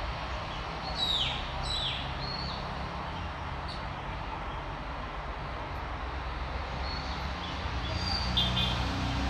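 Birds calling: two descending whistled calls about a second in, then short chirps near the end, over a steady low rumble.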